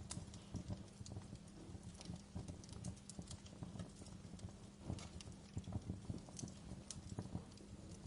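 Wood log fire in a fireplace crackling, with irregular small pops and snaps over a faint low hum.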